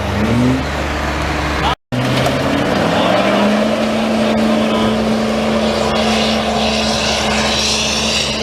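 Diesel pickup truck engine at a truck pull revving up, then holding a steady high rev. The sound cuts out for an instant about two seconds in.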